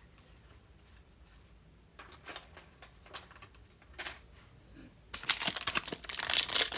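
Soft rustles and taps of trading cards being handled, then, about five seconds in, loud crinkling of a trading-card pack wrapper being torn open.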